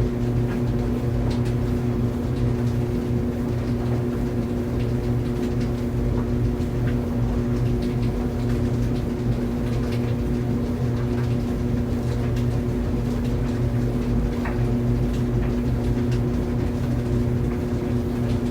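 Laundry dryer running: a steady low motor hum over the rumble of the turning drum, with faint light ticks scattered through it.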